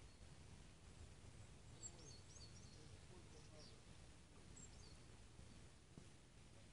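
Faint outdoor quiet with a few short, high bird chirps, clustered about two seconds in and again around the middle, over a low steady rumble.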